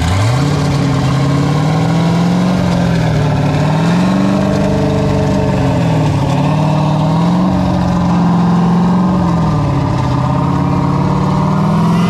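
A car engine revved up from idle and held at raised revs, the engine speed rising and falling slowly about every three seconds, then dropping back to idle at the end.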